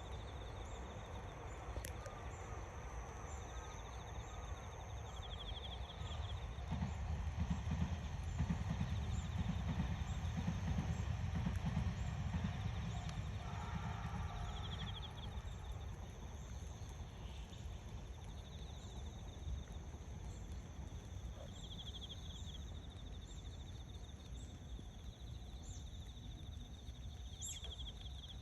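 Outdoor ambience: insects trilling in short pulsed bursts that come and go, over a low rumble that swells for several seconds in the middle.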